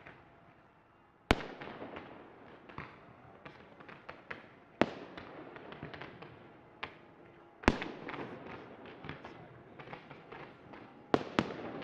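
Fireworks display: shells bursting in sharp bangs, the first about a second in and then every few seconds, with a double bang near the end and crackling between the bangs.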